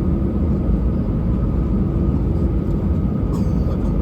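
Steady engine and airflow rumble inside the cabin of an Airbus A320, with a faint steady whine over it.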